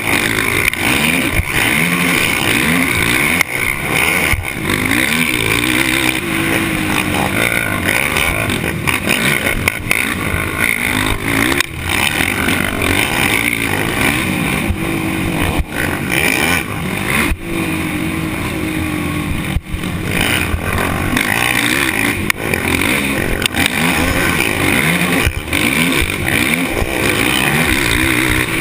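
Off-road racing engine running hard and continuously, revving up and falling back again and again through the race.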